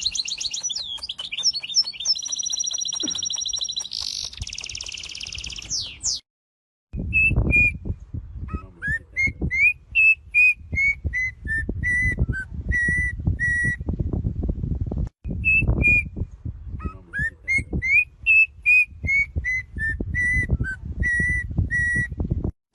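Bird whistling: a fast high warbling trill for the first few seconds, then after a brief break a phrase of clear whistled notes, about two a second, that stops abruptly and is repeated note for note. Low rumbling and knocks run underneath the second part.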